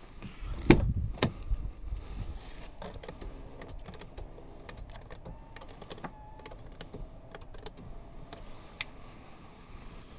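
Two sharp clicks about a second in, followed by a run of lighter clicks and a few faint short beeps, like controls and switches being pressed inside a car's cabin.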